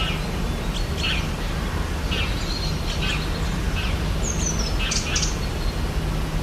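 Rainforest birds chirping: scattered short, high chirps and one falling whistle about four seconds in, over a steady low rumble.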